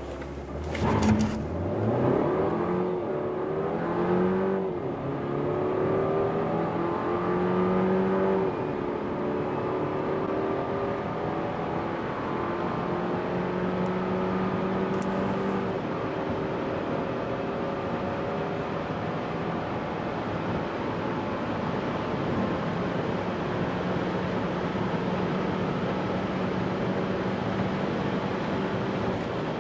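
Renault Megane 1.2 TCe 130 turbocharged four-cylinder petrol engine, heard from inside the cabin, accelerating flat out from a standstill through the gears of its EDC dual-clutch automatic. The engine note climbs and drops back at each quick upshift, four times in the first sixteen seconds or so, then rises slowly in a high gear as road and wind noise build.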